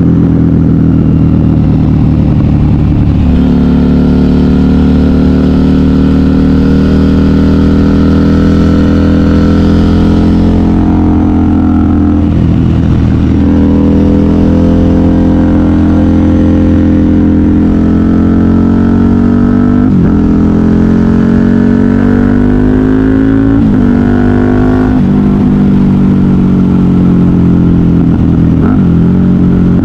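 KTM 990 Super Duke R's 75-degree V-twin running through a custom exhaust on the move, with the revs rising and falling several times through the ride, including brief sharp dips at gear changes.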